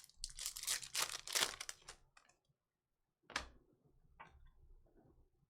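Trading cards and foil pack wrappers being handled: a run of crinkling rustles for about two seconds, then a sharp snap a little past three seconds and a fainter one about a second later.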